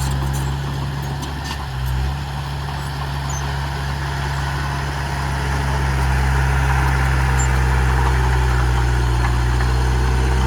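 Heavy diesel engine of earthmoving machinery running steadily at a low, even pitch, growing louder about halfway through.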